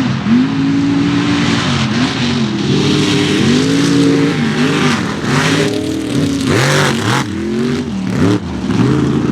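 Mega mud truck engine revving hard, its pitch rising and falling again and again as the throttle is worked, over a heavy rushing hiss.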